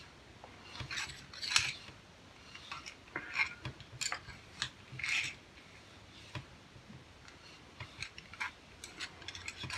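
Cleaning rod pushing a dry patch through a stainless derringer barrel: scattered light metal clicks, taps and short scrapes, irregular throughout.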